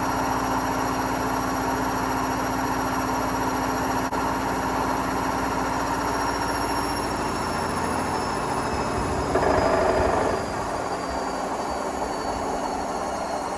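Hotpoint Smart Tech WMFUG742 washing machine running with bricks in its drum: a steady motor whine that falls in pitch as the drum slows down, with a louder, noisier surge about nine and a half seconds in.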